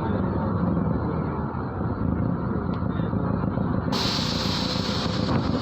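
MAZ-103 city bus heard from inside the cabin, its diesel engine running steadily. About four seconds in, a sudden hiss of compressed air from the bus's pneumatic system starts and lasts over a second.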